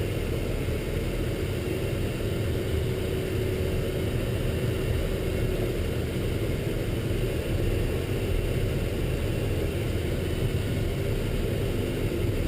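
Military truck engine running as the truck drives, a steady low rumble, with a faint steady whine over it for the first few seconds.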